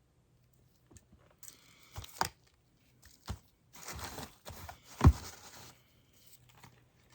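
Crinkling and rustling of handled material in two short spells, broken by several sharp knocks, the loudest about five seconds in.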